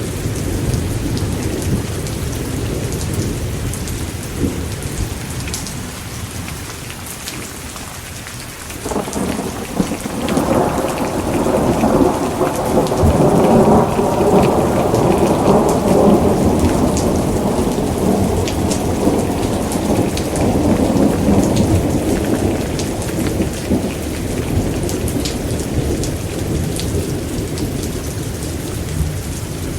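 Thunderstorm: steady heavy rain with pattering drops, and a long roll of thunder that builds about nine seconds in, peaks and then slowly fades away.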